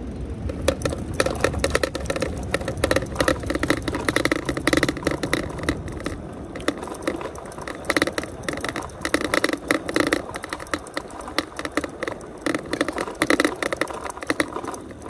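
Fat-tyre e-bike rattling and clattering over cobblestones, a dense, irregular run of rapid knocks as the bike and camera are jolted.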